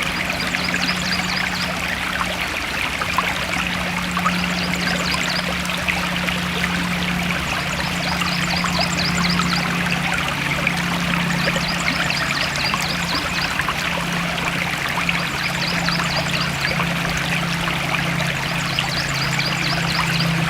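Forest stream flowing and trickling steadily, with many small splashes. Short, high chirping trills recur every two to three seconds over the water.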